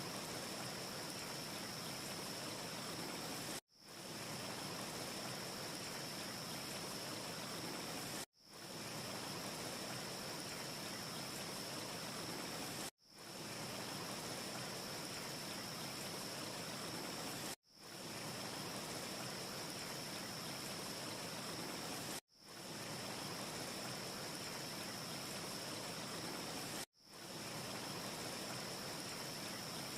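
Steady rushing hiss from a looped ambience track, with a brighter high band. The loop is about four and a half seconds long: at each seam, six times here, the sound cuts out abruptly and fades back in. No fireplace crackle can be picked out.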